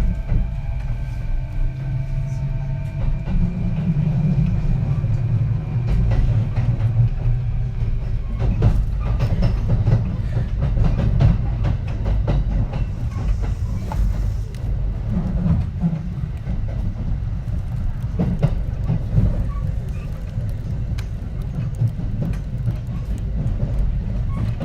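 Kintetsu 3220 series electric train's Hitachi IGBT inverter whining in a few tones as it accelerates, dying away within the first few seconds. Then the steady rumble of wheels on rail, with frequent clacks over rail joints.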